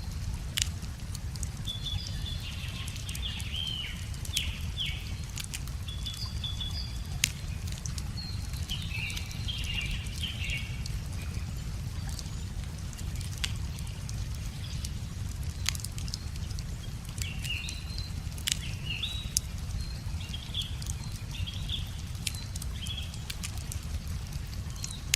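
Wood fire crackling with sharp irregular pops over a steady low rush of a river. A songbird chirps in short bursts several times.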